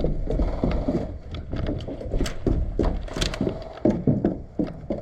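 Footsteps crunching through dry leaves and sticks, with irregular knocks and rustling.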